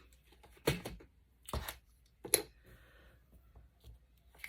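Handling of a small paper clip and paper: three sharp clicks or taps, about a second apart, with light paper rustling.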